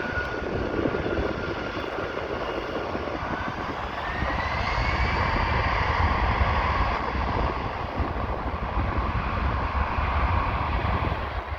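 Jet airliner's engines during a departure: a steady low rumble with an engine whine that rises in pitch about four seconds in, growing louder toward the middle and easing near the end.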